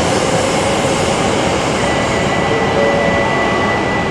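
Shinkansen train moving past the platform with a loud, steady rolling rush and a faint motor whine; a steady high tone joins about two seconds in.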